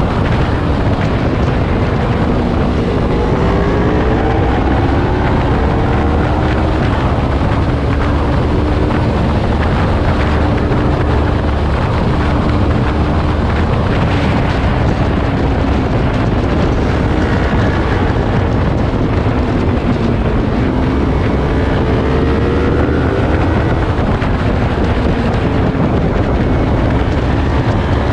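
Yamaha R3's parallel-twin engine revving up and easing off repeatedly at speed, with strong wind noise on the microphone.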